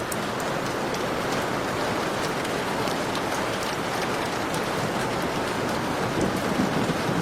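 Heavy rain falling steadily: a dense hiss with many sharp ticks of single drops, swelling a little deeper and louder near the end.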